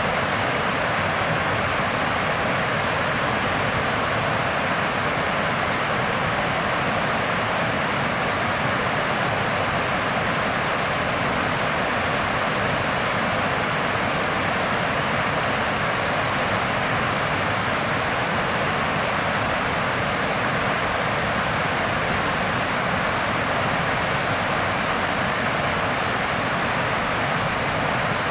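Steady rushing of moving water, an even, unchanging hiss with no breaks.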